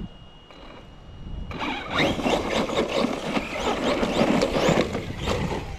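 Team Corally Kagama 6S RC car's brushless motor revving hard with rising and falling whines, mixed with tyre and ground noise. It starts about a second and a half in, after a quieter moment, and eases near the end. The hard throttle burst ends in an unintended mishap.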